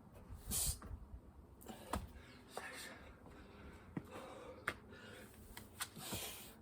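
A person breathing hard through the mouth with sharp, forceful exhales while doing burpees, mixed with several short knocks and taps of hands and feet on the floor.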